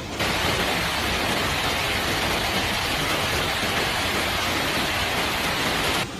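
Heavy rain pouring steadily as an even hiss. It starts and cuts off suddenly.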